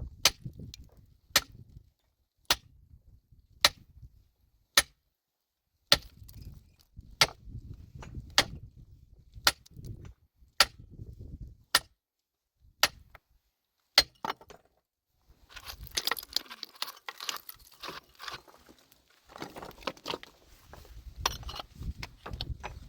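A metal tool striking rock in a steady rhythm, about one sharp blow every second, breaking stone. After about fifteen seconds the blows stop and loose stones and rubble clatter and scrape.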